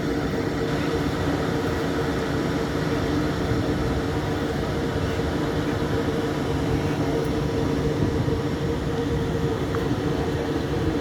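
A stationary railway locomotive running with a steady hum: a few even tones held over a constant rumble, unchanging throughout.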